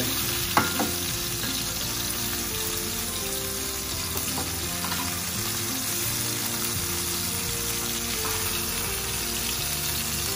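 Chicken thighs sizzling steadily in oil on a stovetop grill pan. A couple of sharp clicks of metal tongs against the pan come about half a second in, as the pieces are turned.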